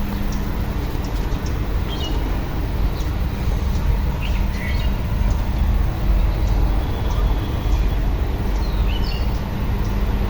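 Mahindra B275 DI tractor's diesel engine running with a steady low rumble, while small birds chirp now and then.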